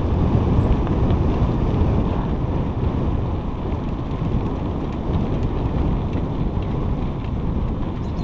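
Wind buffeting the microphone of a cyclist on the move: a loud, dense low rumble that eases slightly toward the end.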